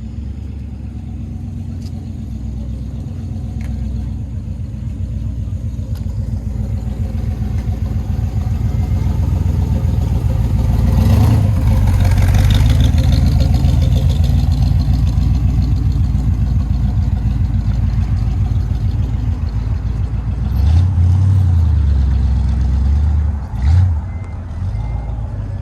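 Car engine running close by with a low rumble that swells to its loudest about halfway through and then eases, as a car moves slowly past, with another brief swell near the end.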